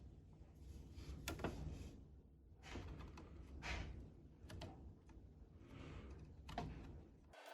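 Faint, irregular clicks and short rustles of small metal tools and parts being handled while the vintage tube tester's 7-pin tube socket is being worked on, over a low steady hum.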